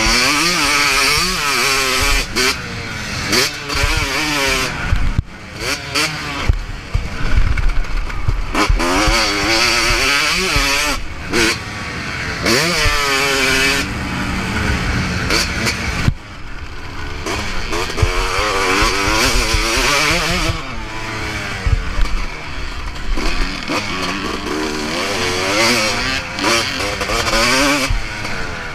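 Motocross bike engine ridden hard on a dirt track, revving up and dropping back over and over as the throttle opens and shuts through the gears, with a few sudden cuts in sound.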